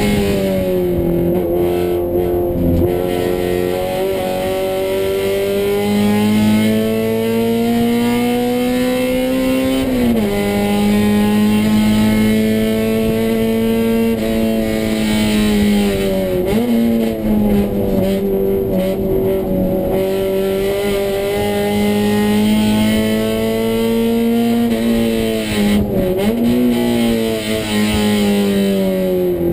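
Honda GSR 1.8-litre DOHC VTEC four-cylinder engine of a Civic coupe running hard on track, heard from inside the cabin. The revs climb slowly and drop sharply three times, about ten, sixteen and twenty-six seconds in.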